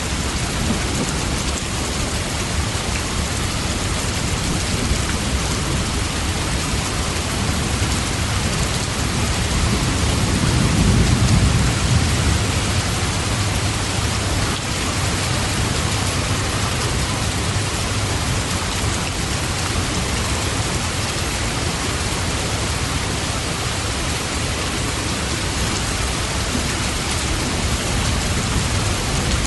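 Steady, heavy rain falling, with a low rumble of thunder swelling and fading about ten seconds in.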